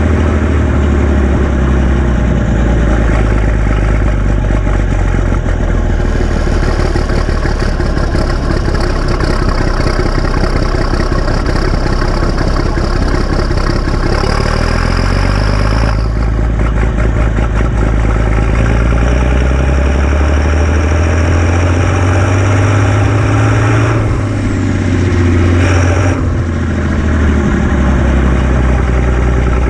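Massey Ferguson 699 tractor's turbocharged six-cylinder diesel engine running steadily. A high, thin whistle sits over the engine note for several seconds and cuts off about halfway through. In the last third the engine note drops and then rises again in pitch.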